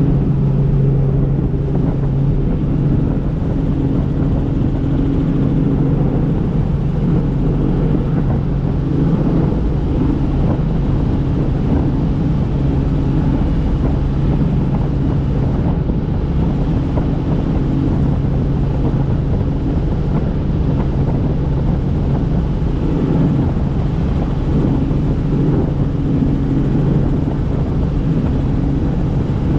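Helicopter in flight: a steady, loud drone of rotor and turbine engine with an even low hum, unchanging throughout.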